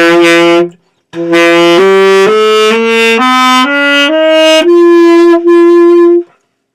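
Saxophone played by someone out of practice for about ten years: a held note that stops, then an ascending scale of about eight notes climbing step by step, ending on a longer, lower held note. It sounds a little out of tune.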